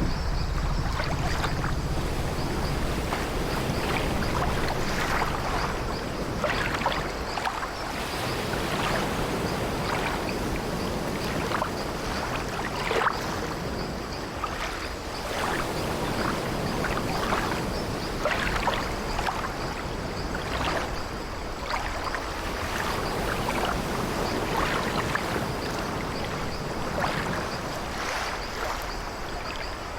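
Ambient sea soundscape of an old wooden sailing ship: a continuous wash of waves against the hull with irregular sloshes and swells, and the ship's wooden timbers creaking.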